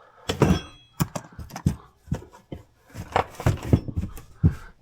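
Hand tools being handled and set down in a car's cargo area: a string of irregular knocks and clatters, with a short metallic ring about half a second in.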